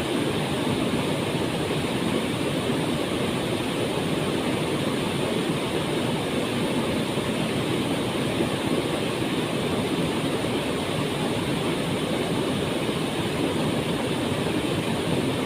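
Waterfall: a steady, even roar of falling water, with no change in level.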